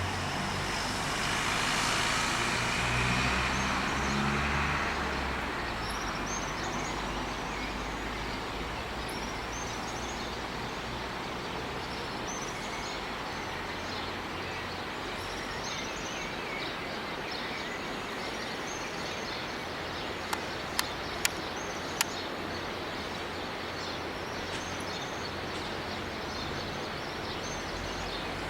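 Dawn birdsong: small birds repeating short, high chirps over a steady background hum. A road vehicle passes in the first few seconds, and four sharp clicks come close together about two-thirds of the way through.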